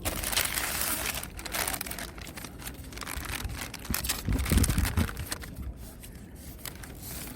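Food packaging crinkling and rustling as it is handled and opened, in dense crackles that are heaviest in the first second or so. A low rumble comes about halfway through.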